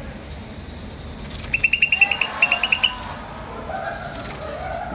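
Green starling giving two quick runs of short, high chirps, about eight a second, around a second and a half in, over a faint background murmur.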